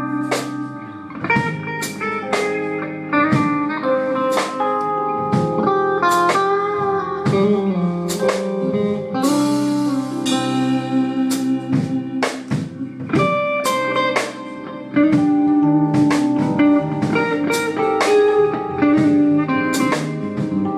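Live band playing a blues-rock instrumental: an electric guitar carries the lead line over drums, with a cymbal crash about nine seconds in.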